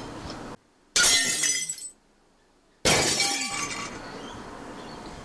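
Glass shattering twice, about two seconds apart. Each is a sudden crash that rings down over about a second.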